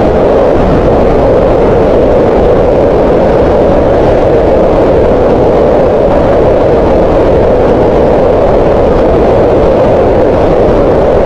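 Green noise: steady, loud synthetic noise concentrated around the middle of the hearing range near 500 Hz, with little high hiss. It does not change.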